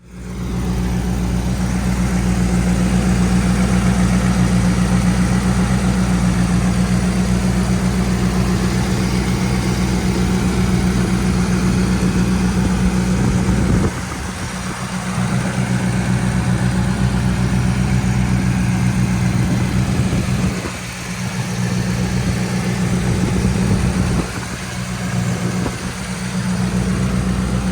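1979 Mercedes-Benz 450SL's 4.5-litre V8 running at a steady idle. The level drops briefly about halfway through and twice more near the end.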